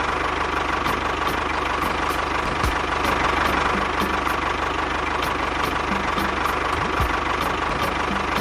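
An engine running steadily at idle, a continuous low hum with a faint regular ticking about three times a second.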